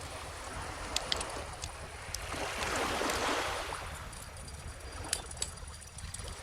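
A wood bonfire crackling with scattered sharp pops over the wash of an ocean wave, which swells to a peak about halfway through and then fades.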